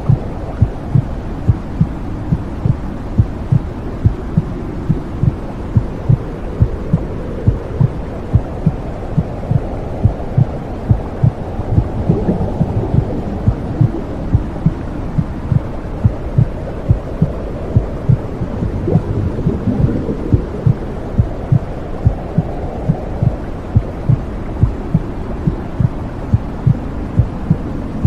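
Womb sound for soothing a baby: a steady low whooshing rumble with a regular heartbeat thumping through it. The whoosh swells briefly twice, near the middle and about two-thirds of the way in.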